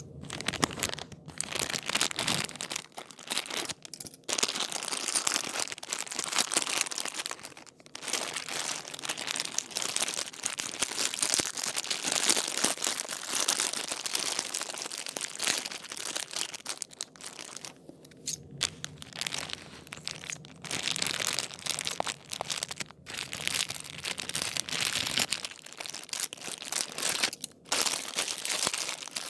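Packaging crinkling and tearing as it is handled and pulled open to unbox a plush toy, in near-continuous irregular rustles with a few brief pauses.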